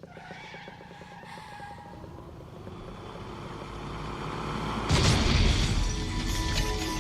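Film sound effects of a heavy truck engine growing steadily louder, then a heavy crash about five seconds in, with the music score coming in after it.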